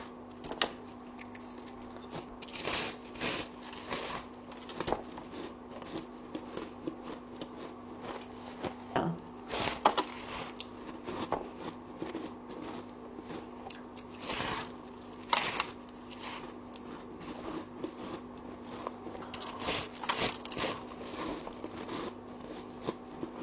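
Frost crunching and crinkling in irregular bursts, with a steady low hum underneath.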